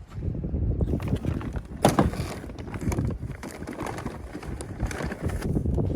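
Low rumble of wind buffeting the microphone, with irregular knocks and a sharp clatter about two seconds in.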